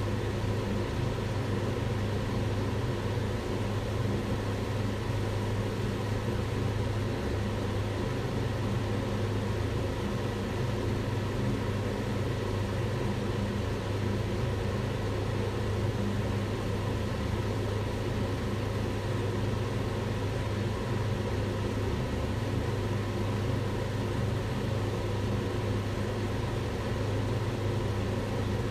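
Kitchen range hood's extractor fan running steadily: a constant low hum with a rush of air over it, unchanging throughout.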